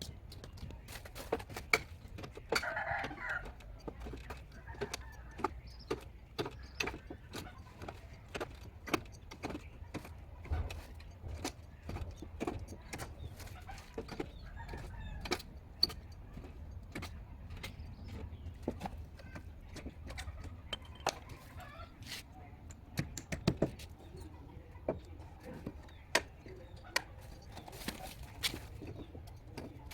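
Irregular sharp knocks and taps, about one or two a second, like a tool working. A brief call, likely a chicken, comes about three seconds in.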